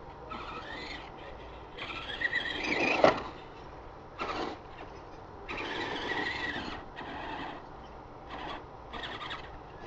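Small electric RC monster trucks driving in dirt, their motors whining in short throttle bursts, about six in a row, several of them a second or more long.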